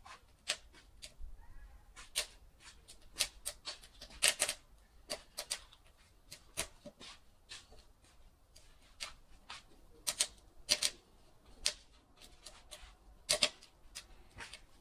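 Wood fire crackling, with irregular sharp pops, some close together and some a second or more apart.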